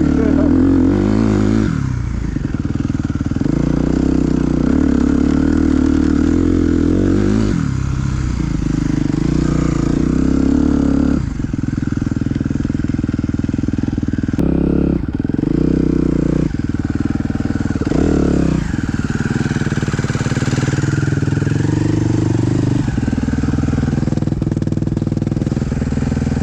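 Suzuki dirt bike engine under way, the throttle opening and closing every few seconds as it accelerates, shifts and backs off, its pitch climbing with each pull and dropping between.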